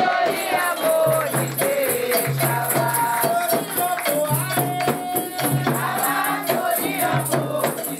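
Candomblé ritual song for Xangô: voices singing over steady percussion with a rattle keeping an even beat.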